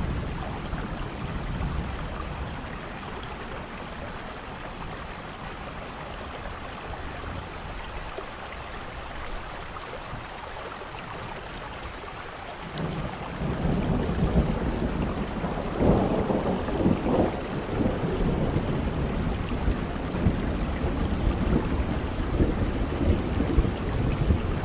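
Steady rain falling, with rolling thunder rumbling in about halfway through, loudest a few seconds later and then trailing on.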